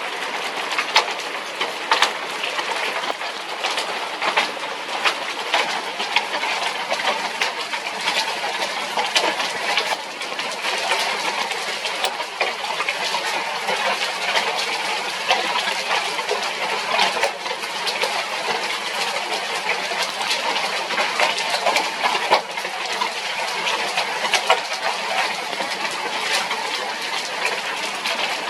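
Heavy storm rain falling: a steady hiss dotted with the irregular ticks of drops striking close surfaces, with no thunder.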